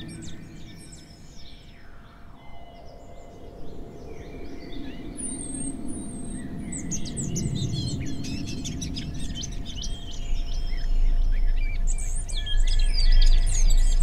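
Several birds chirping and singing, sparse at first and much busier in the second half, over a low rumble. A single sliding tone falls steadily in pitch during the first few seconds.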